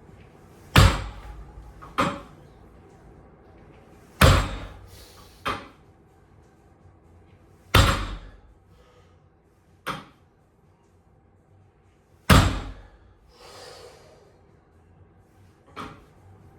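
Loaded trap bar with bumper plates being lifted for reps: each rep ends in a heavy thud as the plates touch down, followed by a lighter knock, four times, with hard exhales between.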